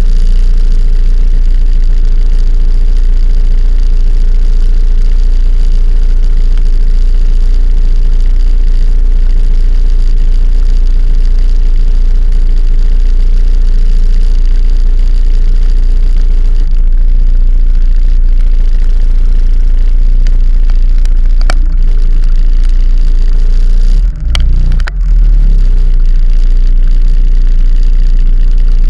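Steady, loud vehicle ride noise dominated by a deep low rumble, briefly dropping out twice about 24 seconds in.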